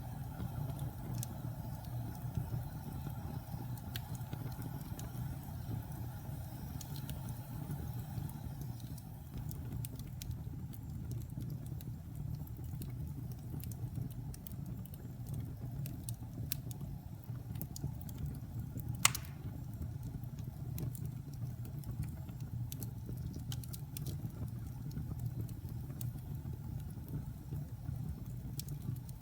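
Wood fire burning in a fireplace: a steady low rumble with scattered small crackles and one louder pop about two-thirds of the way through.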